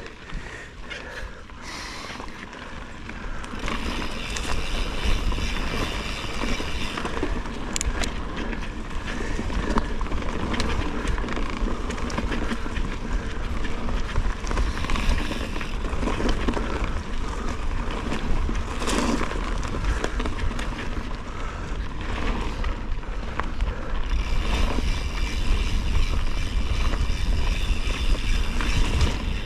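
Mountain bike riding along a forest dirt trail: tyres rolling and the bike rattling over bumps, with wind rumbling on the microphone.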